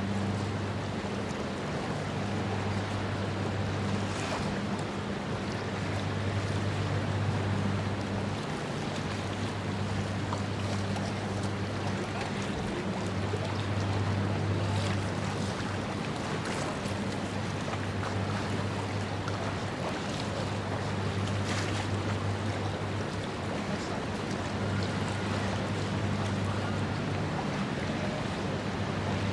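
A ship under way: a low machinery hum that swells and fades every few seconds, over a steady rush of wind and water.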